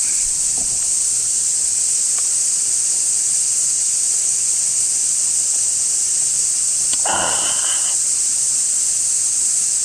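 Loud, steady chorus of cicadas, a continuous high-pitched hiss, with a short pitched sound about seven seconds in.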